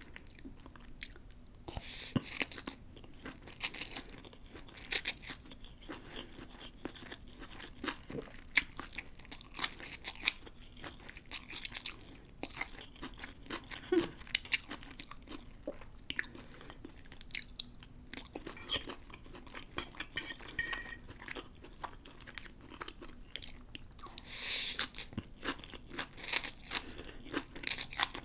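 Close-miked chewing of pancit bihon rice noodles with pork and vegetables: irregular wet mouth sounds and crunches, with sharper crunches every second or so.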